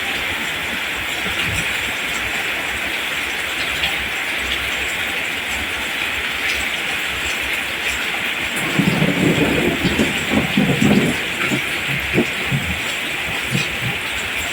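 Steady rain falling, an even hiss, with a low rumble of thunder rolling in about nine seconds in and fading by about eleven seconds.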